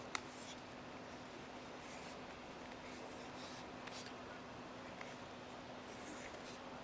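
Faint handling sounds: a sharp click just after the start, then a few soft scrapes and taps, over a steady hiss and a low hum.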